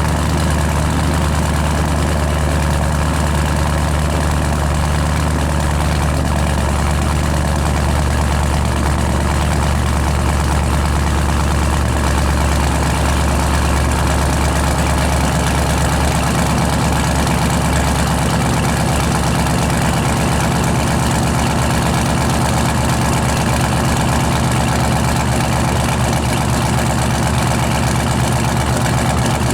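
Supercharged 6.0 LS V8 idling steadily on its first run after a rebuild with a new cam. Its idle note shifts slightly about halfway through.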